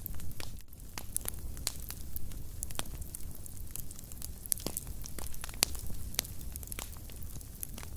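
Wood fire burning in a fireplace, with irregular sharp crackles and pops several times a second over a low, steady rumble of the flames.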